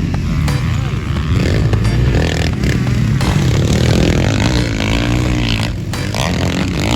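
Dirt bike engines running on a motocross track, revving up and down so the pitch rises and falls.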